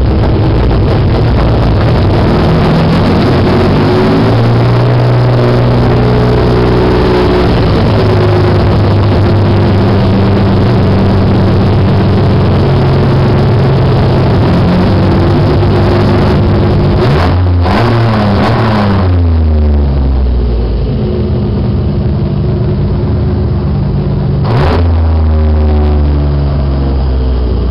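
Cammed, naturally aspirated 1994 Ford Taurus SHO DOHC V6 (Yamaha-built) on straight headers, running loud at steady revs that step up and down. About two-thirds of the way through the revs fall away to a lower, quieter running, then one quick blip rises and falls off near the end. The engine is loud enough to distort the camera's recording.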